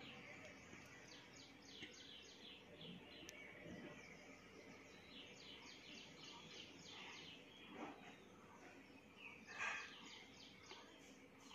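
Near silence with faint bird chirping in the background: runs of quick, high, falling chirps, a few to the second, with a somewhat louder chirp near the end.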